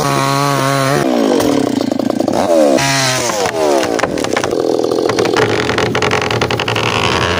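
Small chainsaw running at full throttle, its pitch dropping sharply and climbing back twice as it loads up in the cut, then cutting steadily into hard ironwood.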